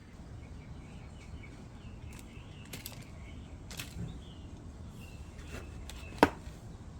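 Small birds chirping faintly over a steady low outdoor rumble, broken by a few sharp clicks, the loudest about six seconds in.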